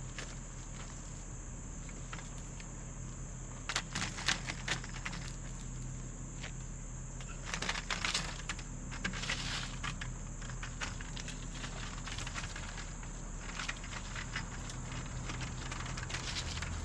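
Scattered clicks and rustling handling noises, in two denser bursts about four and eight seconds in, over a steady electrical hum.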